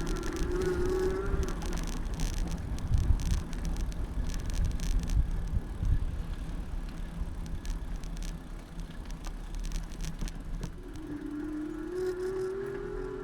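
Bicycle riding over city streets, heard through a handlebar-mounted camera: steady road rumble with scattered rattles and clicks. A rising whine comes briefly about a second in and again near the end.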